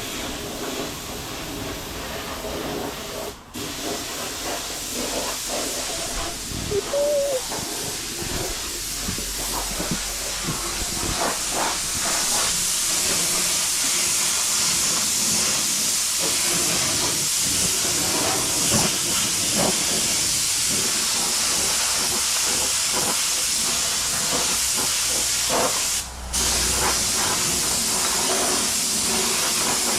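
Compressed-air gun hissing steadily against metal, building up over the first seconds and cutting out briefly twice, near the start and near the end. A few faint knocks sound underneath.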